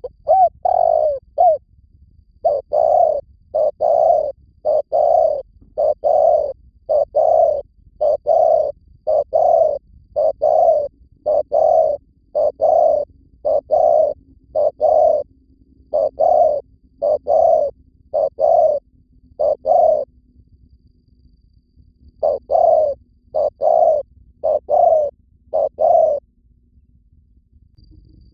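Spotted dove cooing: a long string of short, rhythmic coo notes, about two a second, with a pause of about two seconds around two-thirds through. A recording of the kind played as a lure call to draw in wild spotted doves.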